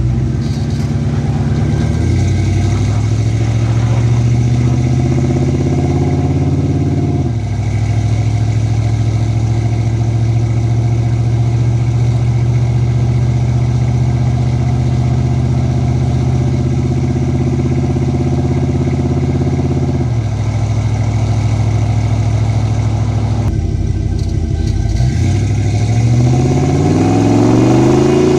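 Ford 7.3L Godzilla V8 with custom exhaust pulling through the gears of its 6R80 automatic: the engine note climbs and drops suddenly on an upshift, holds steady at cruise, falls away, then climbs quickly again to another shift near the end.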